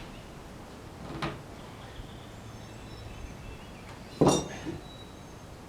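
Metal parts of a sawmill knocking as they are pried at with a wooden lever: a light knock about a second in, then a louder metallic clank with a brief ring about four seconds in.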